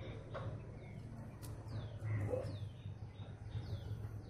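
Small birds chirping: a quick series of short, high, falling chirps, two or three a second, starting about a third of the way in, over a steady low hum.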